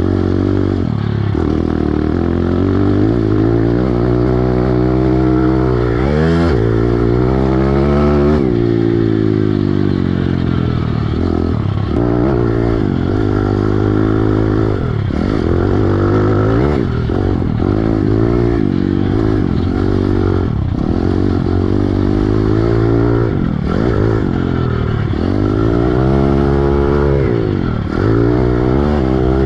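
Piranha 140 pit bike's single-cylinder four-stroke engine being ridden hard, revving up and dropping back over and over. Its pitch rises and falls every second or two.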